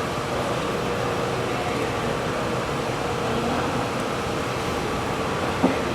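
Steady mechanical hum with a faint steady tone, and a single short knock near the end.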